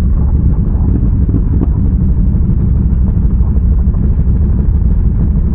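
ATV engine running steadily while riding, a dense low rumble with no change in pace.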